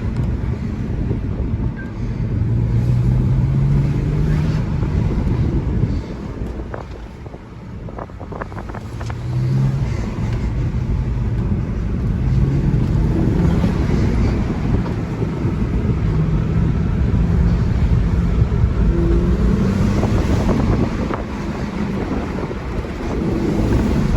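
BMW 335xi's twin-turbo 3.0-litre inline-six, breathing through an Injen cold air intake, pulling under throttle with the engine note climbing. It eases off briefly about a quarter of the way in and again near the end. Wind noise sounds on the microphone.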